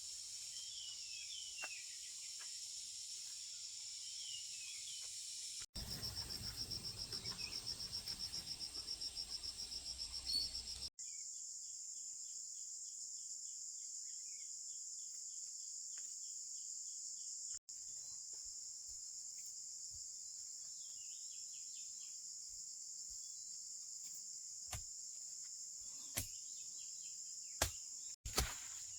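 Crickets and other insects chirping in a steady high-pitched chorus that changes abruptly at several cuts, one stretch a fast pulsing trill, with a few sharp knocks near the end.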